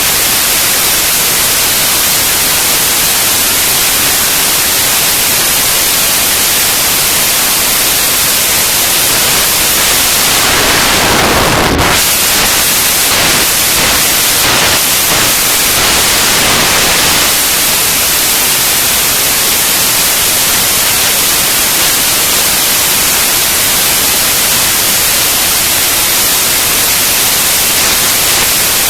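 Loud, steady static hiss like white noise. About ten seconds in it swells, with a quick downward sweep near twelve seconds and a few faint ticks, then it settles back to an even hiss.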